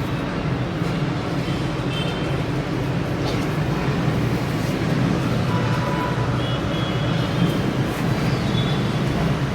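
Steady rumble of road traffic from outside, with a few faint, short horn toots.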